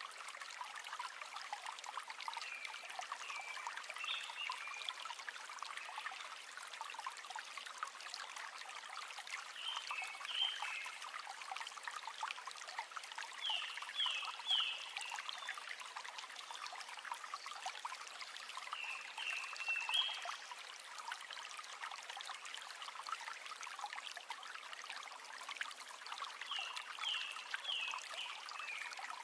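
River water flowing and trickling in a steady rush. Short high animal chirps in quick little groups come through it about five times.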